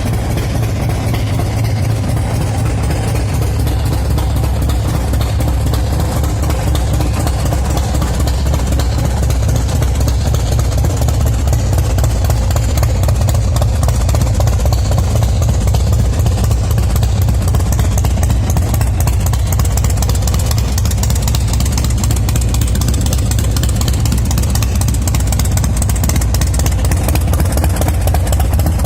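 Big Dog Ridgeback chopper's 117 cubic inch S&S V-twin engine idling steadily, with a deep, even exhaust pulse.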